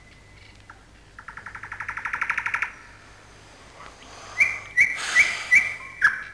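Bird calls: a fast trill that grows louder, then four short high chirps in quick succession near the end.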